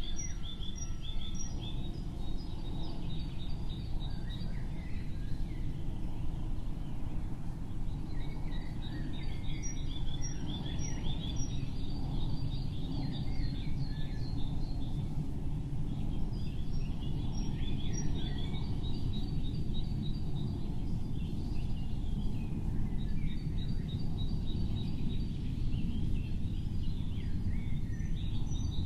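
A songbird singing phrases of quick, high chirps and trills, each lasting about four seconds with pauses of a few seconds between, four phrases in all. A steady low rumble runs underneath.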